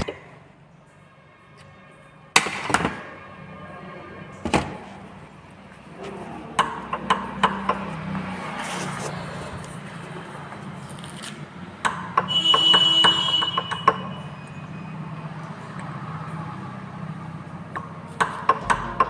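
Metal parts and hand tools clinking, tapping and knocking during work on a tractor's hydraulic distributor valve. There are a few sharp knocks, scattered light clicks, and a busier run of rapid clicks with a brief ringing tone about two-thirds of the way in.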